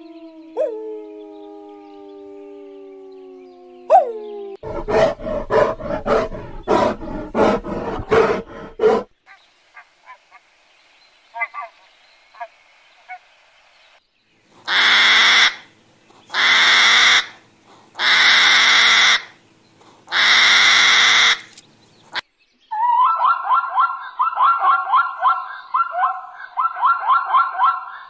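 A series of separate animal calls. First a wolf howls, the long note falling in pitch, then comes a run of short sharp calls. Later there are four long hissing blasts, and near the end a fast, pulsing, braying call.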